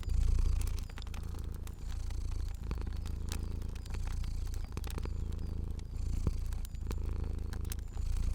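Domestic cat purring, the low purr swelling and dipping about once a second with its breathing, with scattered crackles of a fire.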